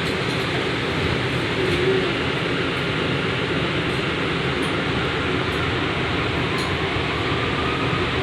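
Interior noise of an R179 subway car moving off from a station: a steady rumble of wheels on the rails mixed with ventilation hiss, with a faint rising motor whine near the end.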